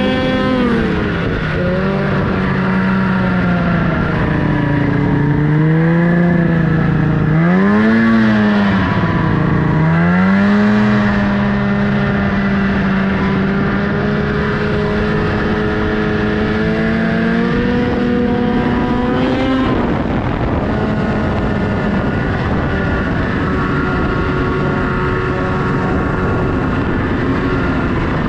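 Snowmobile engine running under throttle, its pitch rising and falling as the throttle is opened and eased, with two sharp dips and recoveries about 7 and 10 seconds in and a drop in pitch near 20 seconds.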